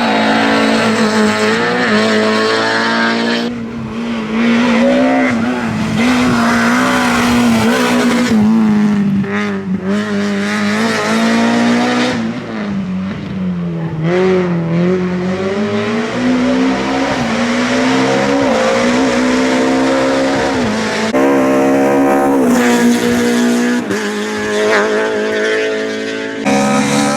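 Peugeot 306 A7-class rally car's engine driven hard at race pace. The revs repeatedly climb and fall, with brief dips between pulls.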